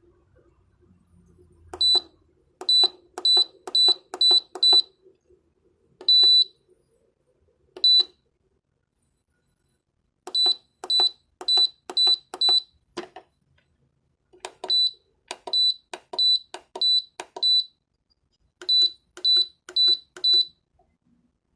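Dehumidifier control board's buzzer beeping: about two dozen short, high-pitched beeps, mostly in quick runs of five or six at about two a second, with one longer beep about six seconds in, typical of the board answering button presses.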